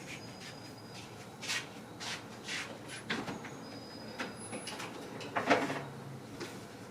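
Kitchen handling noises: a string of light knocks and clatters, like cupboards and dishes being moved, with the loudest knock about five and a half seconds in.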